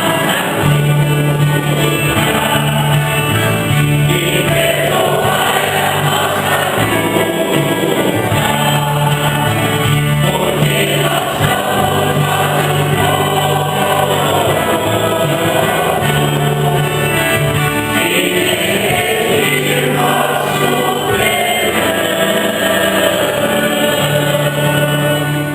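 Church choir singing a Mass hymn over instrumental accompaniment, with sustained low bass notes underneath.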